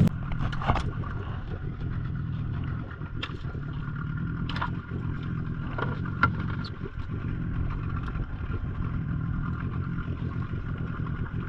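An engine running steadily, a low even hum with a few light clicks and knocks over it.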